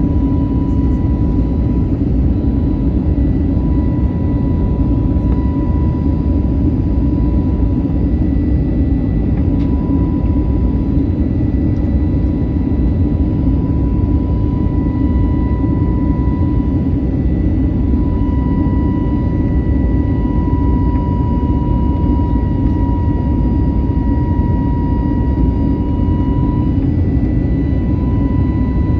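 Airbus A321neo jet engines heard from inside the passenger cabin: a steady, loud rumble with a thin, steady whine above it that drifts slightly in pitch.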